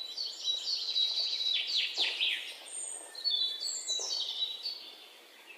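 Birds chirping and calling: a busy run of high-pitched chirps, trills and short falling whistles, several birds at once.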